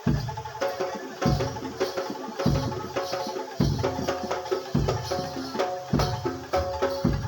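Live Javanese gamelan music for a kuda lumping dance: a deep drum stroke about every second and a quarter, under ringing pitched metal percussion and quick lighter drum strokes in a steady rhythm.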